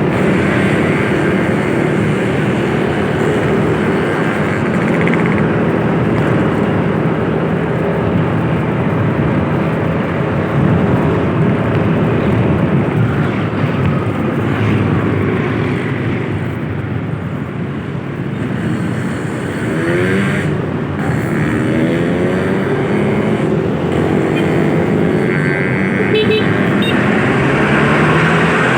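A motor vehicle's engine running while on the move, over steady road noise, its pitch sweeping upward about two thirds of the way through.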